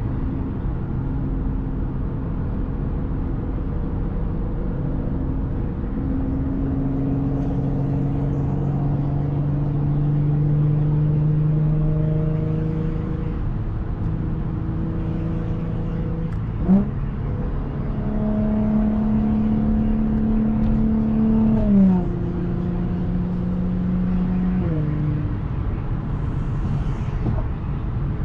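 Audi S4 B8's supercharged V6 through an AWE Touring exhaust, pulling gently in traffic with its note slowly rising in pitch. Past the middle comes a short, sharp rev, and later the pitch steps down twice as it shifts up.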